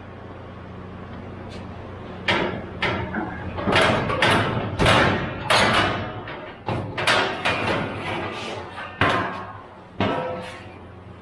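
Sheet-metal cabinet parts being handled: a series of about a dozen loud clanks and bangs over several seconds, each ringing briefly, over a low steady hum.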